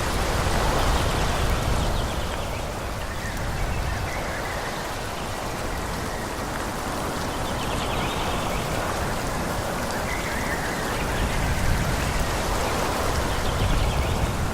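Wind blowing through forest trees, a steady rushing noise that swells and eases in slow gusts.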